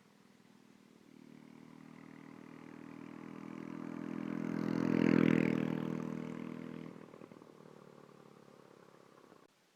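Unmuffled mini bike engine passing by at speed: it grows steadily louder to a peak about five seconds in, then fades as the bike rides away. The exhaust is loud because the muffler has been taken off.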